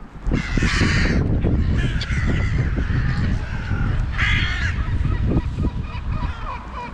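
Crows cawing, two bursts of harsh calls: one just after the start and one about four seconds in, over wind buffeting the microphone.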